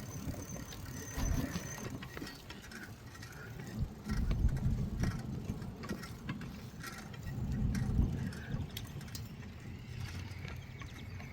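Wind buffeting the microphone during a bicycle ride, swelling in gusts, with the light clicking and rattling of the moving bike.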